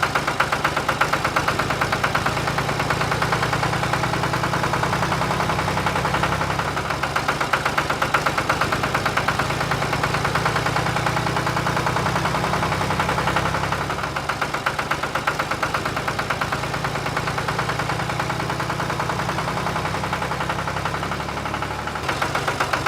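Engine of a homemade mini tractor running steadily, with a rapid, even beat.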